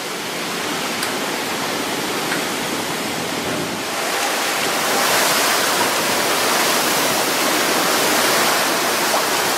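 Hurricane wind and heavy rain in a hurricane's eyewall: a steady rushing noise that grows louder about four seconds in.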